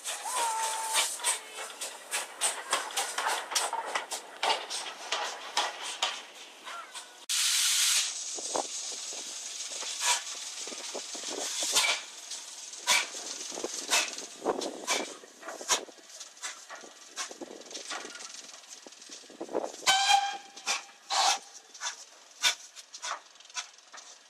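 Steam locomotive hissing, with a loud burst of escaping steam about seven seconds in, amid scattered clicks and knocks.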